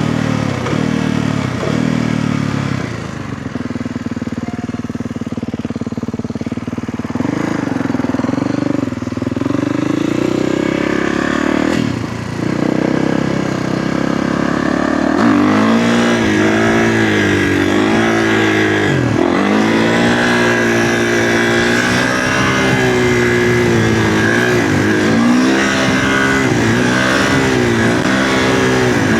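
Kawasaki KX450F dirt bike's single-cylinder four-stroke engine running under way. It holds fairly steady for the first half, then from about halfway gets louder, with its pitch rising and falling again and again as the throttle is worked.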